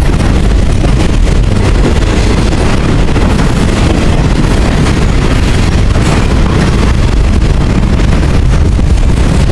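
Freight train's tank cars and boxcars rolling past close by: a steady, loud rumble of steel wheels on rail. Wind buffets the microphone.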